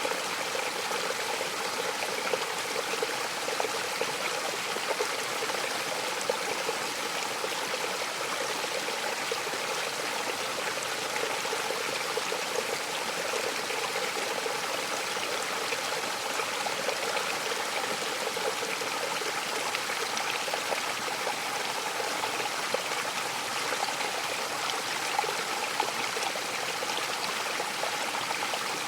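Waterfall: water falling and splashing in a steady, unbroken rush, with small splashes flickering through it.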